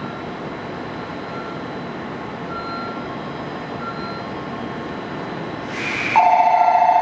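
Steady hum of a train standing at a station platform. About six seconds in comes a short burst of air hiss, and then the platform departure bell starts ringing loudly, a rapid two-tone electronic trill that signals the train is about to leave.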